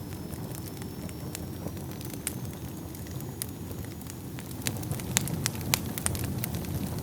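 Wood fire burning in a fireplace: a steady low rumble of flames with sharp crackles and pops. The crackles come thicker and louder about five seconds in.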